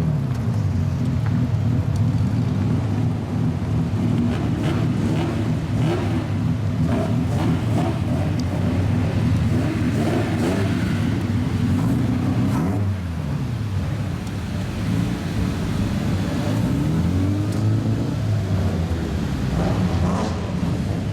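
Loud straight-piped exhausts of lowered old-style Japanese cars running and revving, with several engine notes overlapping. The revs rise and fall about halfway through and again later on.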